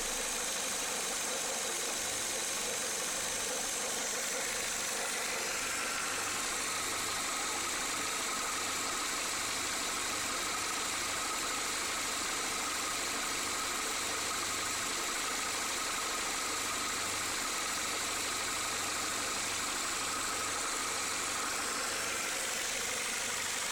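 Renault Clio Mk2 eight-valve petrol engine idling steadily, making the noise that appeared after its belt was changed. A faint steady whine comes in about six seconds in.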